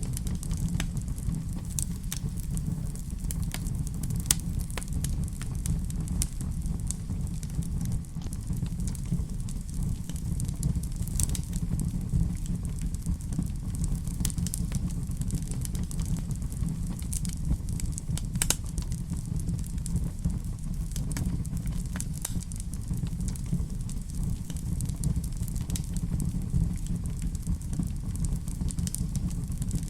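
Fire crackling in a fireplace: a steady low rumble of the flames, with irregular sharp crackles and a few louder pops.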